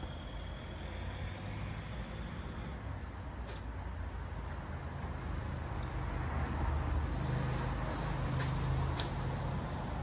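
Small birds chirping in three short bursts, over a steady low rumble that swells a little about seven seconds in.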